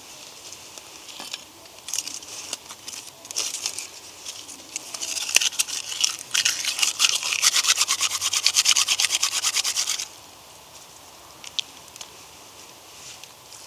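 Repeated scraping strokes, scattered at first, then a fast, even run of them for about five seconds that stops abruptly.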